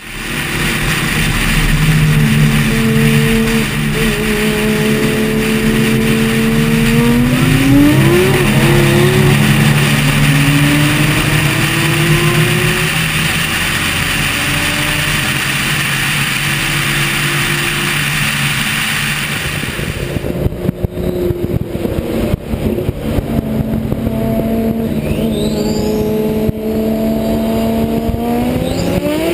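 Cars racing at full throttle: engine notes climb in pitch and drop back at gear changes, over a heavy rush of wind on the car-mounted camera. About twenty seconds in the wind hiss thins out, and near the end an engine note climbs again.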